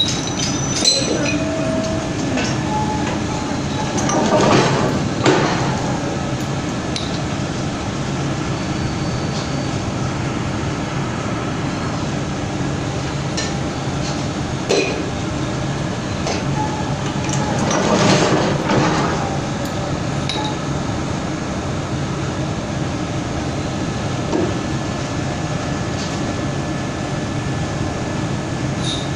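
Up-stroke forging screw press running with a steady machinery hum, swelling louder twice for about a second each, near the start and about two-thirds of the way in, with scattered sharp metallic clinks.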